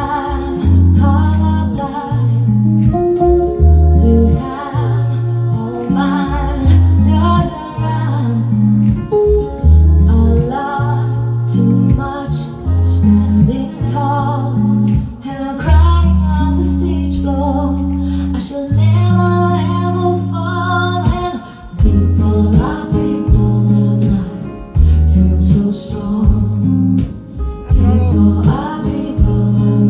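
Live band playing a song: a rhythmic bass guitar line and guitar under a singing voice.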